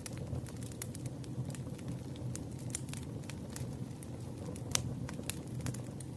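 Campfire crackling: a steady low rumble of burning with irregular sharp pops and snaps, one louder snap near the middle.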